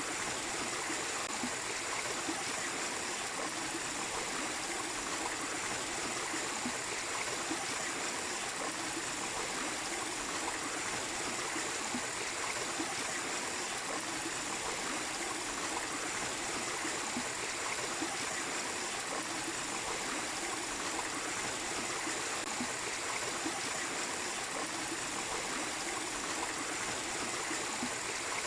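Small waterfall: water running and splashing steadily with no change, with a faint high steady whine running through it.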